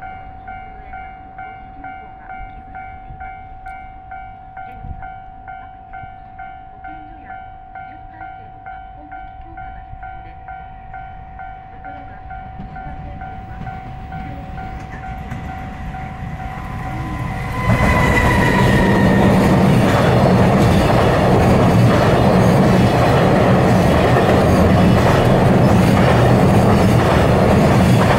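A warning bell rings about twice a second while a JR Freight EF210 electric locomotive approaches with a slowly growing rumble. About 17 seconds in the train reaches the microphone with a brief horn note, and the loaded Koki container wagons go past loudly, their wheels clattering rhythmically over the rail joints.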